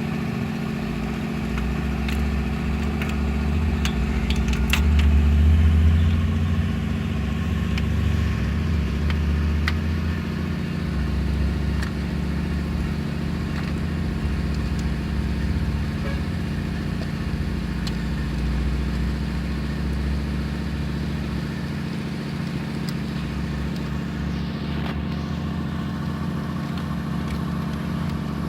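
Mitsubishi Strada L200 engine running at a steady idle. It swells briefly about five seconds in, then settles back.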